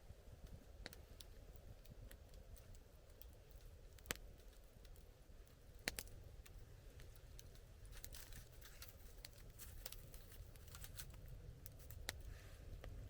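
Wood campfire crackling faintly, with scattered sharp pops, the loudest about six seconds in, and a run of quicker small crackles a little later.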